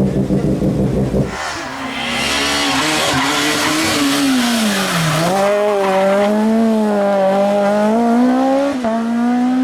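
Suzuki Swift S1600 rally car's 1.6-litre four-cylinder engine running at high revs. Its note drops around five seconds in as the car slows, then climbs steadily again. Through the first half a broad hiss of tyre noise runs under the engine.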